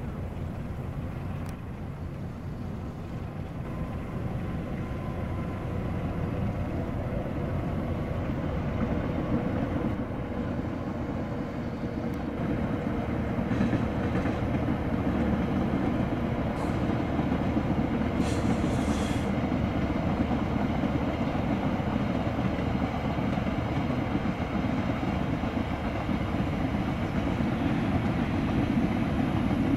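A diesel locomotive hauling a long train of passenger coaches passes by, the rumble of engine and wheels on the rails. It grows steadily louder over the first dozen seconds, then holds steady as the coaches roll past.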